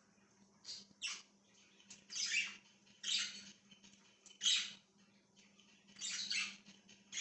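Budgerigars giving short scratchy chirps and squawks, about six separate calls at uneven intervals.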